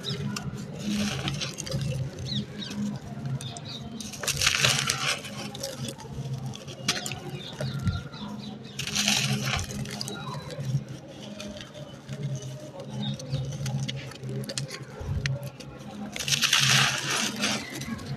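Dry, stony sand-cement crust being crumbled, a continuous crisp, dusty crackle of small grains and chips. It grows into three louder gritty crunches: about four seconds in, about nine seconds in, and from about sixteen to seventeen seconds.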